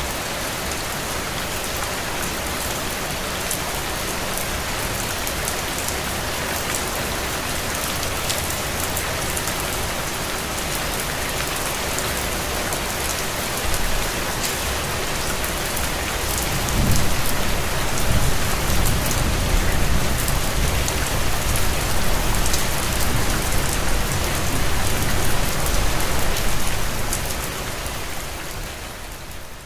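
Steady rain on a window, an even hiss dotted with fine drop patters. Just past halfway a low rumble joins it for about ten seconds, and the sound fades down near the end.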